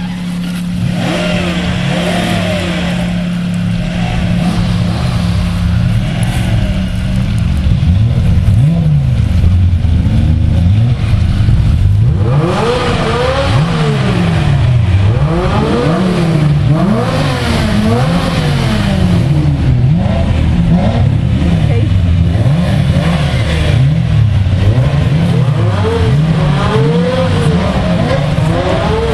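Several Ferrari engines running: a steady idle at first, then revved again and again, the engine notes rising and falling in quick blips that overlap as more cars join in.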